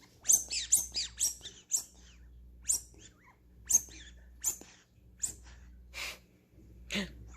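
A puppy giving a string of short, high-pitched squealing yelps, about eleven of them, each falling in pitch.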